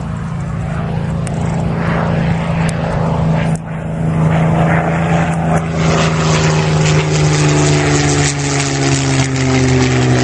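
Supermarine Spitfire's Rolls-Royce Merlin V12 engine droning in flight, growing louder about six seconds in as the plane comes closer, its pitch dropping slightly near the end as it passes.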